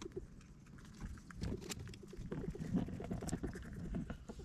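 A pet's chirping: a rapid, even run of low chirps, about five a second, starting around the middle and running on to the end.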